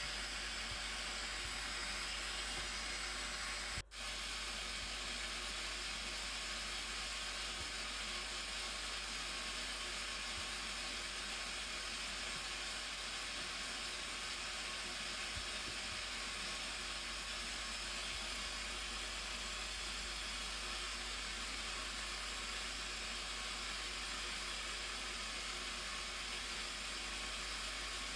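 Steady rush of the Blue Nile Falls: an even roar of falling water, with a brief dropout about four seconds in.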